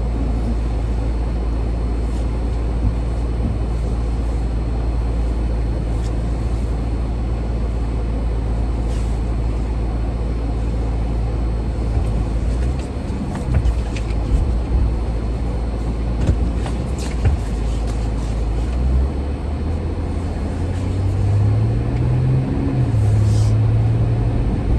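Car driving, with a steady low engine and road rumble; near the end the engine note rises in steps as the car picks up speed.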